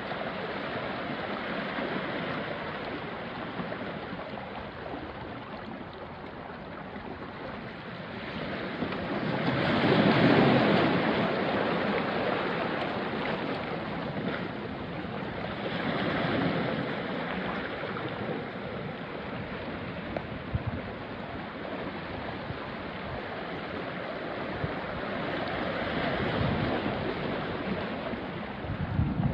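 Small waves washing onto a rocky shore, a steady wash with three larger surges about ten, sixteen and twenty-six seconds in. A light breeze blows on the microphone.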